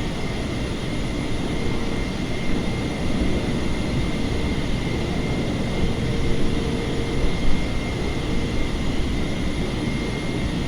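Steady flight-deck noise of a Boeing 747 in flight on approach: a constant rush of airflow and engine noise, with a faint steady high tone.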